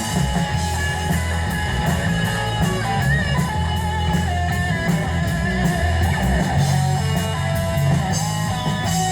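Rock band playing live: electric guitar leads over a heavy bass line in a passage without singing.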